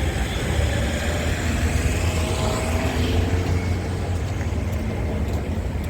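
A railway engineering maintenance vehicle's engine running steadily during shunting, a deep, even sound with no break.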